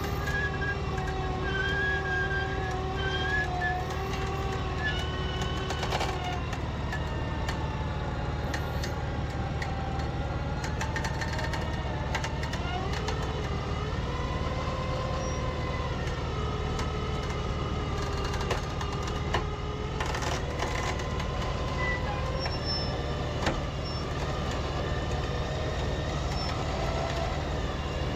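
Vehicle engine running steadily, its pitch slowly rising and falling as the revs change.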